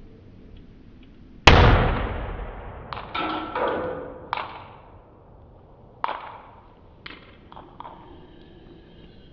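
A sharp bang with a long echoing decay, followed by a run of lighter knocks and clattering impacts.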